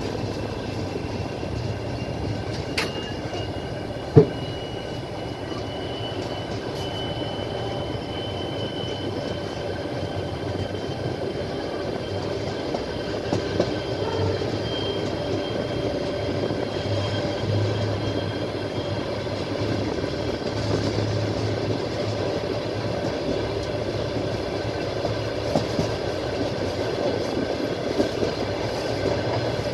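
Train wheels clattering over the rails, heard from inside a moving passenger carriage, with a steady rolling rumble. A faint high whine runs through the first half or so, and there is one sharp knock about four seconds in.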